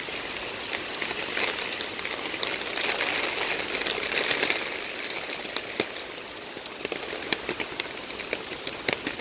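Steady rain hissing, with many drops tapping sharply on an umbrella held overhead at uneven intervals.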